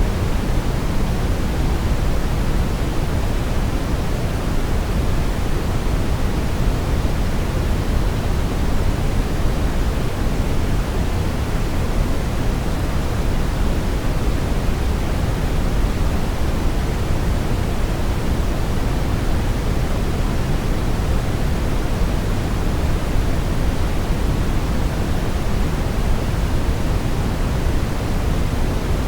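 Brown noise: a steady, even rumbling hiss, strongest in the low end and fading toward the highs, with no changes or events.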